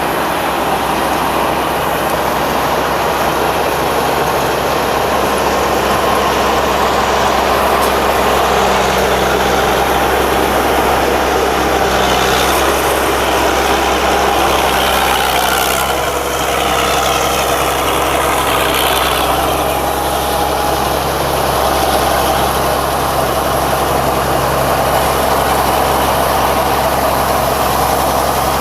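Combine harvester's Isuzu 6M61 diesel engine running steadily, a loud constant low drone with the machine's mechanical noise over it.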